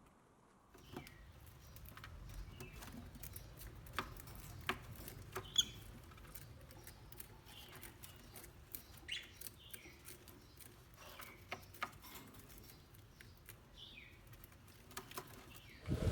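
Faint, short bird chirps, each a quick falling note, scattered among light clicks and taps over a low rumble.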